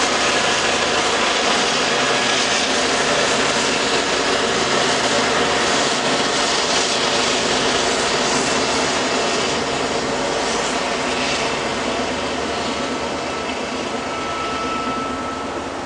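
BNSF double-stack container freight train rolling past: a steady, loud noise of diesel locomotives and steel wheels on rail, easing slightly over the last few seconds as the locomotives draw away.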